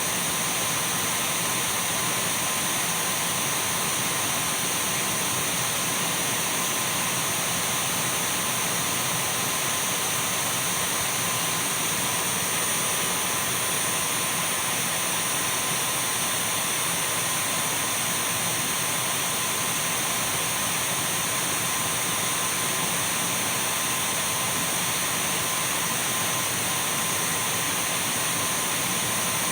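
Dyson V12 cordless stick vacuum cleaner running steadily: an even rush of air with a thin, high-pitched motor whine and a fainter middle tone, unchanging in level and pitch.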